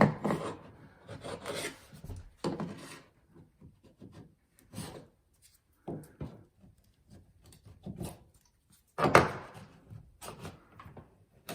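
A chisel scraping and cutting excess hardened filler off a wooden stair tread, in a series of irregular scraping strokes with short pauses, the strongest about nine seconds in.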